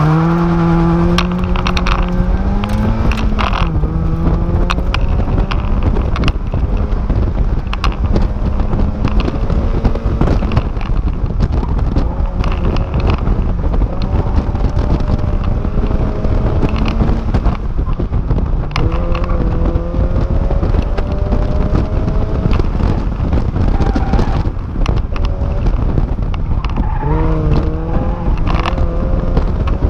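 A sports car's engine revving hard through an autocross run. Its pitch climbs under full throttle and drops back several times as the driver lifts and shifts, over heavy road and wind noise in the open cockpit.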